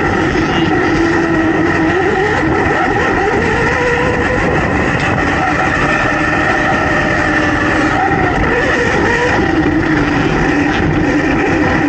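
A youth motocross dirt bike engine running hard, its pitch rising and falling again and again as the throttle opens and closes.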